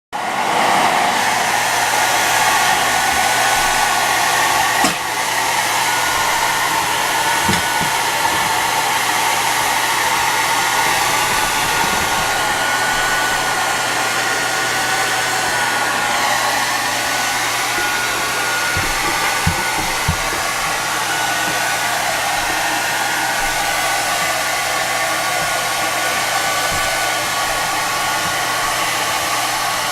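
Hair dryer blowing steadily, with a faint high whine that comes and goes and a few brief low knocks.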